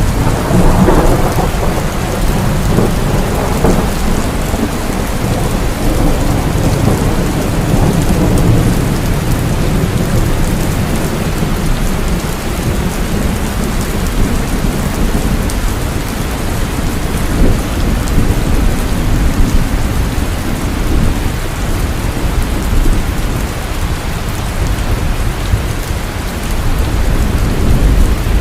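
Heavy rain falling steadily, with rolling thunder rumbling underneath; the thunder is loudest in the first few seconds.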